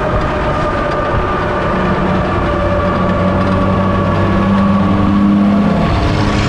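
Heavy diesel truck engine running while driving on the highway. Its pitch climbs slowly and drops back near the end, as the engine speed changes.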